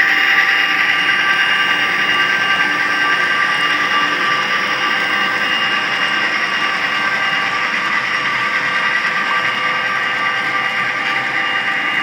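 Steady engine sound of a sound-equipped HO-scale model locomotive running, with several held tones over a hiss. It grows slightly fainter as it goes.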